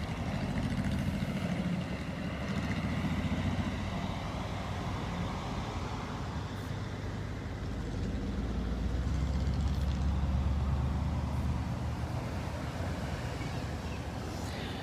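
A line of cars and trucks driving slowly past, engines running with steady road noise. A louder low engine hum swells up about eight seconds in and fades again a few seconds later.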